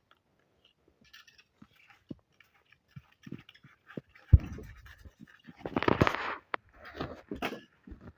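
Scattered light knocks and clicks, a sharp thud about four seconds in, and a short rustling scrape around six seconds: handling of roofing felt and bricks during masonry work.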